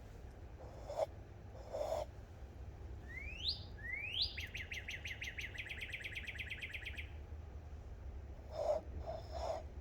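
A songbird singing: two rising whistled notes, then a fast, even trill of about ten notes a second lasting some two and a half seconds. A few short soft sounds come before and after it.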